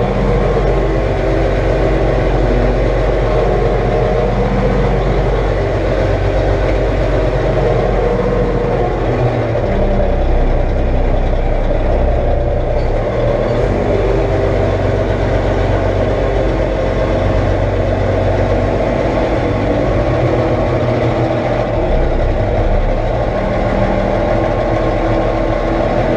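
Heavy diesel engine running steadily under load, its pitch shifting a few times as the revs change.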